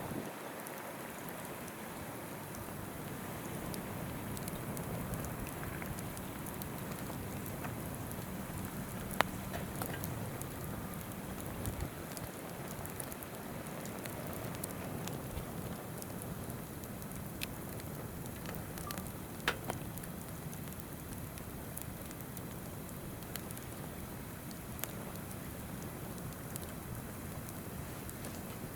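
Wood campfire crackling, with scattered sharp pops, two louder ones about nine and nineteen seconds in, over the steady rush of a river.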